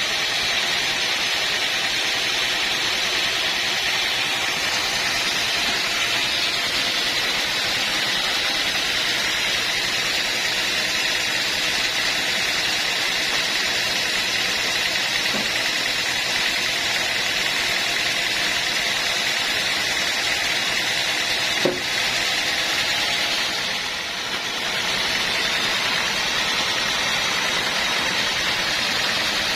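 Sawmill machinery running steadily with a hissing whir, with a single click about two-thirds of the way in and a brief drop in level a couple of seconds later.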